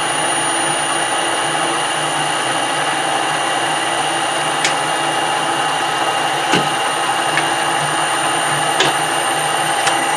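Metal-turning lathe running with a steady whine, cutting across the end of a steel workpiece, with a few sharp ticks scattered through.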